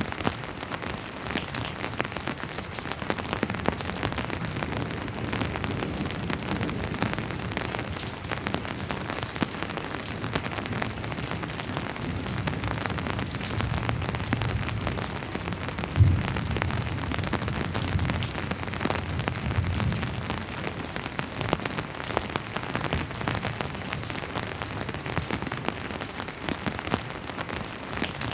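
Steady rain falling on a surface, with many close drops ticking. About halfway through a low rumble swells with one sudden low thump: faint distant thunder.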